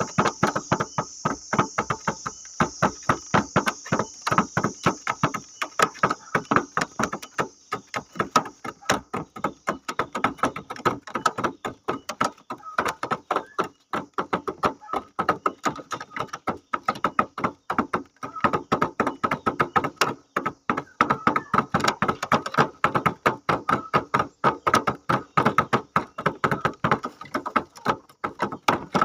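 A hungry bird pecking rapidly at a hard surface: a fast, irregular run of sharp taps, several a second, without a break.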